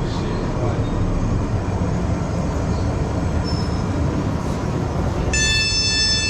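Passenger train running with a steady low rumble. About five seconds in, a high electronic beep of several tones starts, stops briefly and sounds again.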